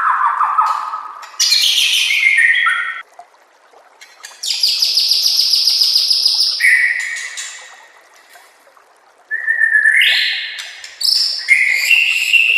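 White-rumped shama (murai batu) singing: loud, varied phrases of falling whistles, fast buzzy trills and held notes, separated by short pauses.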